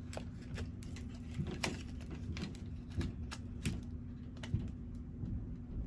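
Stone beads of a rose quartz and 7-chakra bracelet clicking against each other as it is handled: irregular light clicks, one or two a second.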